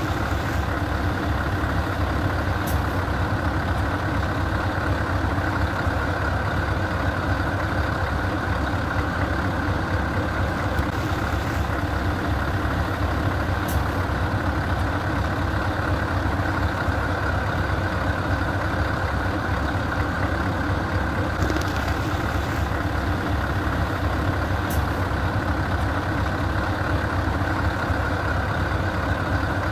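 Scania 164L 480 V8 truck engine idling steadily through its custom exhaust, a deep even rumble with no revving. A few brief faint hisses come through now and then.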